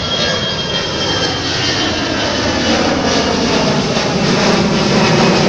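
Jet engines of a departing airliner passing overhead: a steady rumble with a thin high whine, the lower tone falling slowly in pitch as the loudness builds a little.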